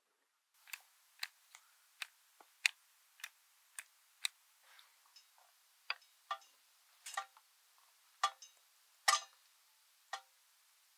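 Wood fire crackling: irregular sharp pops, about one or two a second, starting half a second in.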